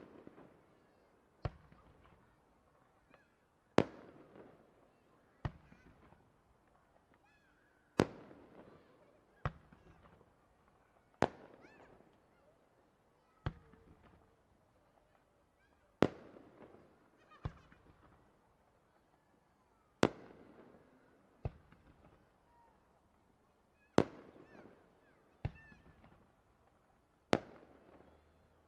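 Aerial firework shells bursting in a steady rhythm. A loud bang comes about every four seconds, each followed about a second and a half later by a softer one, and every burst trails off in a short echo.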